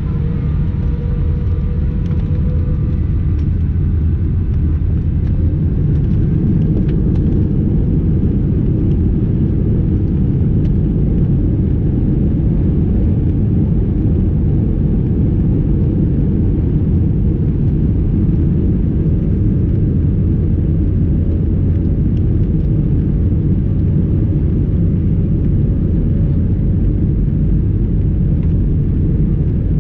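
Airbus A320 jet engines at high power, heard inside the cabin as a loud, steady rumble. A faint engine whine, which has just risen in pitch, holds level near the start.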